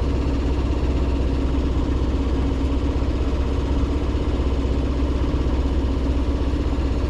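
Sailboat's inboard diesel engine running steadily while motoring, a constant low drone with a fine regular throb.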